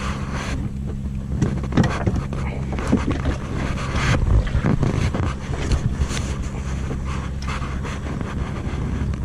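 A boat's motor running steadily with a low hum, with scattered knocks and handling noises over it.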